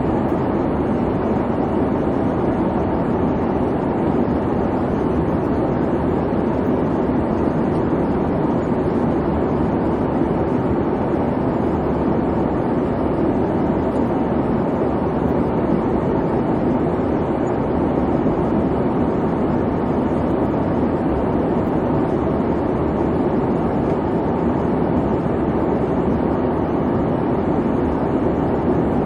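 Airliner cabin noise in flight: a steady, even rumble and hiss of engines and airflow, strongest in the low-middle range, with no changes.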